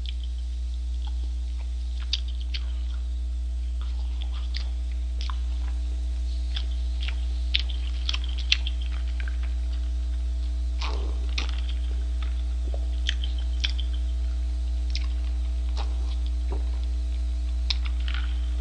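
Close-miked chewing of a McDonald's Double Quarter Pounder with Cheese: scattered wet mouth clicks and smacks, with a swallow of drink from a paper cup about ten seconds in. A steady low electrical hum runs underneath.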